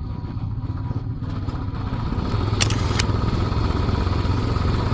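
Royal Enfield Classic 500's single-cylinder engine running with a steady low rumble that grows a little louder about two seconds in. Two sharp clicks come near the middle.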